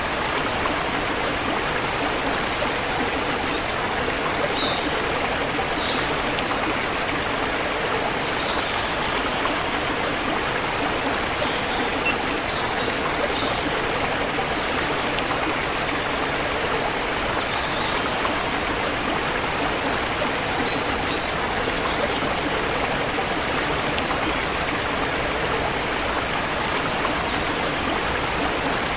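Forest river water flowing steadily over rocks, with short high bird chirps scattered throughout.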